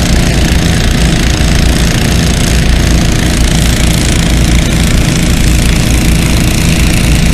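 Several small gasoline-engine water pumps running steadily, pumping lake water through suction and fill hoses into a water-filled cofferdam.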